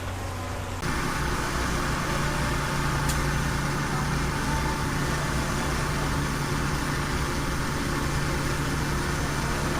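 Heavy diesel engine of earthmoving machinery running steadily, a low drone over broad mechanical noise. It steps louder suddenly about a second in.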